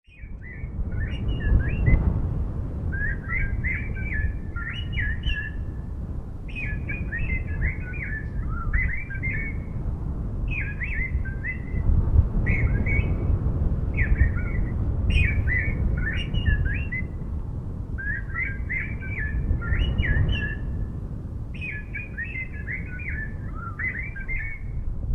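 A songbird singing short, rapid warbled phrases over and over with brief pauses between them, over a steady low rumble.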